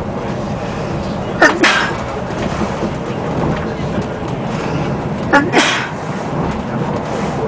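Cabin noise of an ETR600 electric train running at speed: a steady rumble and rush. Two brief sharp sounds cut through it, about a second and a half in and again about five and a half seconds in.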